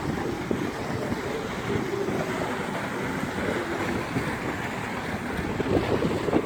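Wind buffeting the microphone, a steady noisy rush with water and ship noise beneath it.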